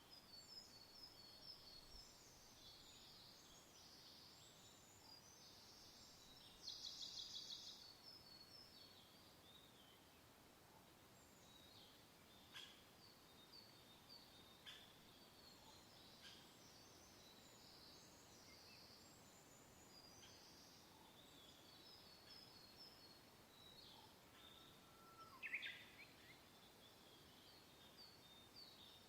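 Faint birdsong from several birds: scattered high chirps and short whistles throughout, a rapid buzzy trill about seven seconds in, and a louder call a little past the 25-second mark.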